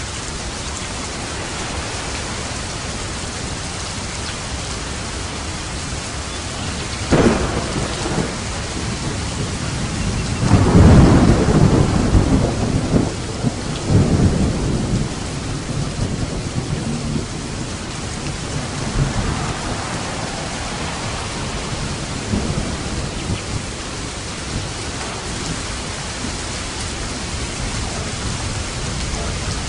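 Steady heavy rain with thunder. A sharp crack comes about seven seconds in, then a loud rolling rumble a few seconds later, fading into fainter rumbles.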